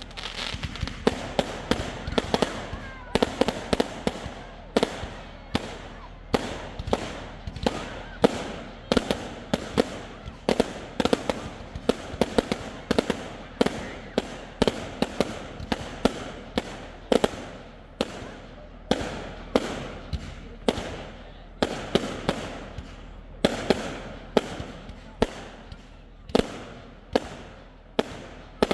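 Fireworks going off in a rapid, unbroken string of sharp bangs, about two a second, each with a short echoing tail.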